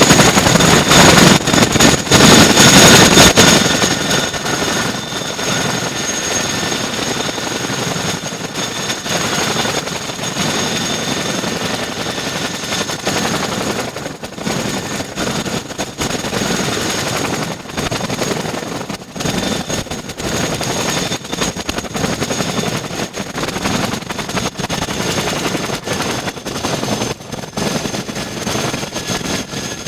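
Boeing CH-47 Chinook tandem-rotor helicopter running, a rapid rotor chop over a steady high turbine whine. Loudest for the first few seconds, then settling to a lower, even level.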